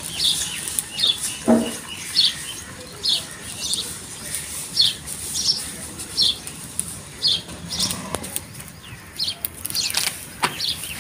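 A bird chirping over and over, short high chirps about once a second, with a few short knocks in between.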